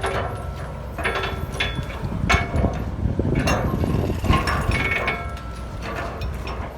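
Heavy construction machinery engine running with a steady low rumble, with irregular metallic clanks and knocks about once a second.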